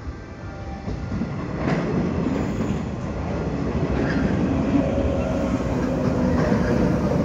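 A 113-series electric multiple unit runs into the station and slows to stop, its wheels and running gear passing at close range. It grows louder about two seconds in as the cars draw alongside, with a few wheel clacks over the rail joints.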